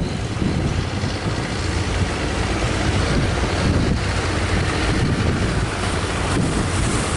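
Strong wind buffeting the microphone over the noise of a rough sea.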